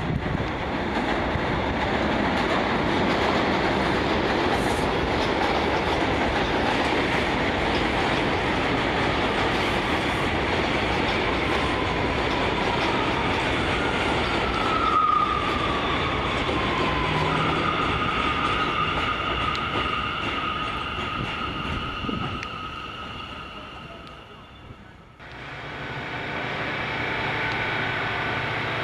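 NYC Subway R179 train running on the rails, a loud, even rush of wheel and track noise with a high whine that slides down about halfway through and then holds. The noise fades away, then cuts abruptly to a steady train hum with high steady tones near the end.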